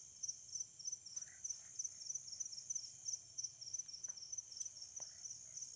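Crickets chirping in a steady, rapid, high-pitched rhythm, with a few faint clicks.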